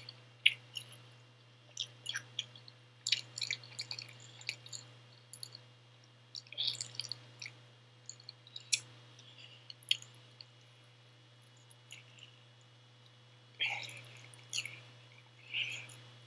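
A person chewing and smacking a mouthful of pizza: irregular wet clicks and mouth smacks, a few sharper ones standing out.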